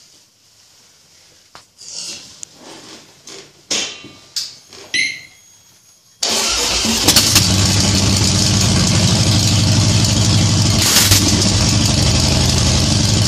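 2013 Harley-Davidson Softail Slim's 103 cubic inch V-twin, fitted with Vance & Hines exhaust pipes and a Screaming Eagle Heavy Breather air intake, starting about six seconds in after a few faint clicks, then running loud and steady.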